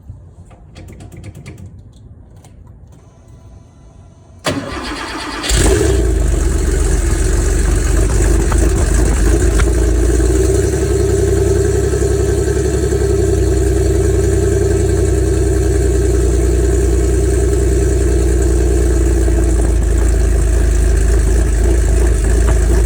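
1988 Porsche 911's air-cooled flat-six cold-starting: after a few faint clicks, the starter cranks about four and a half seconds in, the engine catches about a second later and runs at a steady idle.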